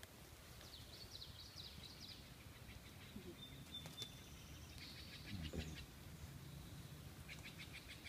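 Faint bird chirps: three short runs of quick high notes, with a thin whistled note between them, over a low background rumble.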